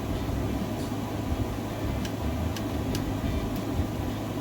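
Steady low background hum of room noise, with a few faint light clicks around the middle as craft pieces are handled.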